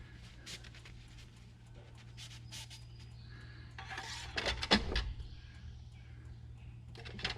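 Oil dipstick being pulled from and handled at the fill tube of a John Deere L120 lawn tractor's engine: faint rubbing and scattered light clicks, with a louder cluster of clicks about four to five seconds in.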